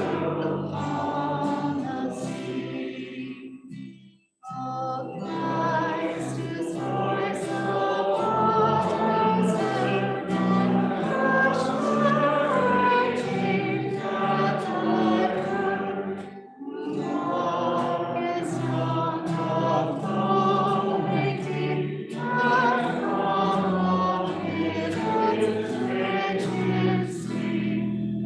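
Congregation singing a hymn with accompaniment, with a brief pause between phrases about four seconds in and another shorter dip near the middle.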